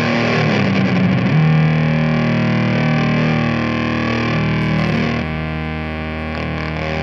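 Ibanez S470 electric guitar played through a fuzz pedal: distorted chords ring out, with the chord changing about a second in and again around five seconds in.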